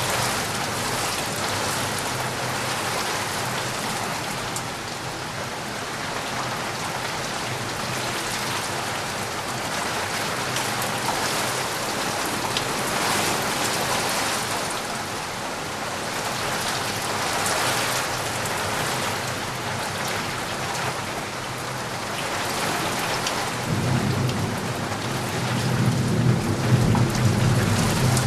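Steady rain pattering on surfaces, swelling and easing a little. Near the end, a low rumble of thunder builds underneath it.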